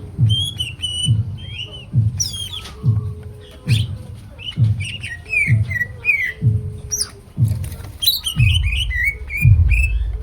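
Green leafbird (cucak ijo) singing a fast, varied run of chirps, whistled glides and squawky notes without a break. Under the song, a low thudding beat repeats about once a second.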